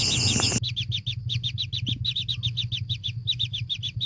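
A bird chirping in a rapid, evenly spaced run, about eight short high chirps a second, over a steady low hum. The chirping starts suddenly about half a second in, replacing a buzzing insect chorus.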